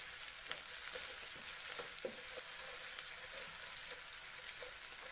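Hot oil sizzling in a nonstick pan as chopped green chillies, grated garlic and ginger and mustard and cumin seeds are sautéed, a steady hiss with small scrapes and ticks as a plastic spatula stirs them around the pan.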